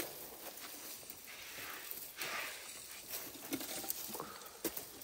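An elephant stripping and chewing bark from a branch: scattered sharp cracks and crunches with short bursts of rustling.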